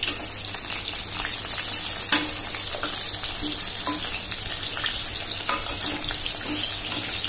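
Slices of elephant foot yam sizzling steadily in hot oil in a stainless steel kadai over a high gas flame. A flat metal spatula makes a few light clicks and scrapes against the pan as the pieces are turned over.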